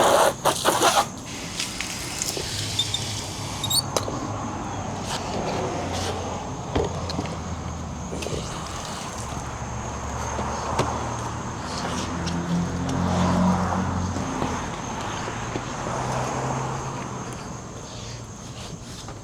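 A motor vehicle's engine humming, swelling toward the middle and fading toward the end, with scattered clicks and knocks.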